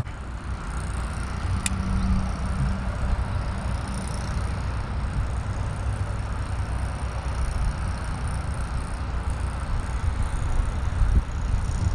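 Strong wind buffeting the microphone: a steady low rumble with a rushing hiss over it, and one brief click about one and a half seconds in.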